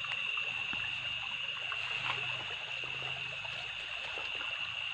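A small stream trickling, under a steady high-pitched insect chorus.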